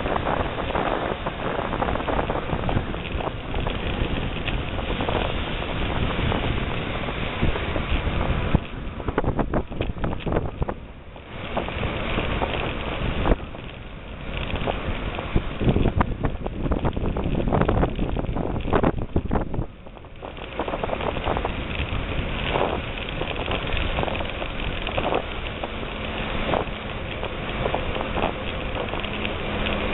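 Wind buffeting the microphone of a bicycle descending a rough forest track, with the bike clattering and rattling over bumps throughout; the noise briefly eases twice.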